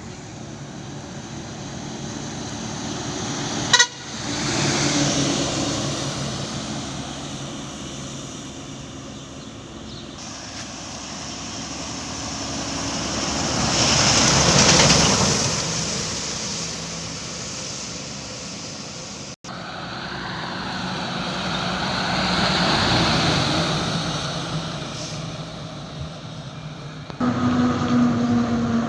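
Road vehicles passing one after another, each one swelling and fading. The sound breaks off abruptly twice. A vehicle horn sounds steadily near the end.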